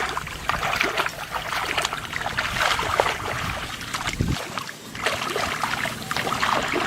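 Shallow floodwater splashing and sloshing irregularly as someone moves through it, with a low thud about four seconds in.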